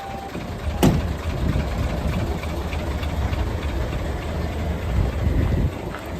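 Mitsubishi Great dump truck's 8DC11 V8 diesel engine running with a steady low rumble, with a single sharp clunk about a second in. The last of a reversing beep ends at the very start.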